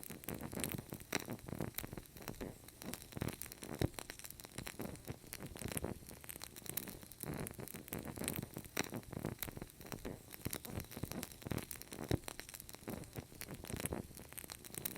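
A fire burning with a continuous low rush and dense, irregular crackles and pops, a few sharper snaps standing out.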